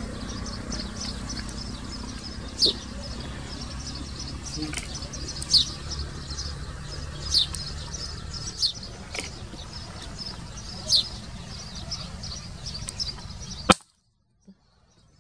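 Birds chirping: many short, high chirps, a few louder ones every couple of seconds, over a steady low rumble. Near the end a sharp click, then the sound cuts out.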